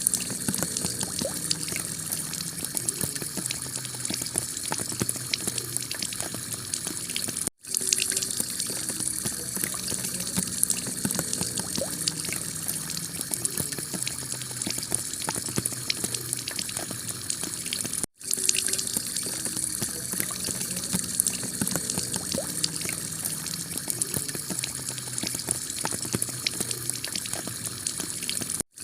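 Heavy rain falling on a tiled roof, a dense steady patter of drops. The sound cuts out for a split second three times, about every ten seconds.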